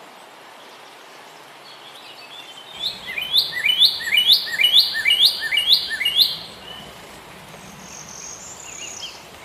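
A bird singing a quick series of about seven repeated chirping notes, then a fainter call near the end, over a steady background hiss.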